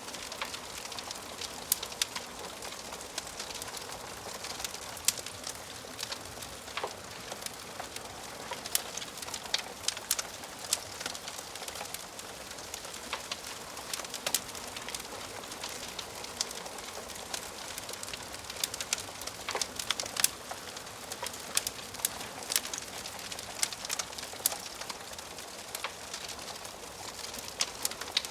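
Wood fire crackling in a fireplace: a steady hiss with many sharp, irregular pops and snaps of burning wood.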